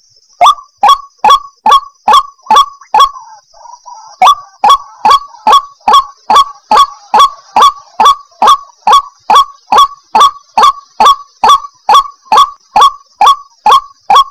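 White-breasted waterhen (ruak-ruak) calling: a long series of loud, sharp notes at about two a second, breaking off for about a second some three seconds in, then running on. A faint steady high whine sits behind the calls.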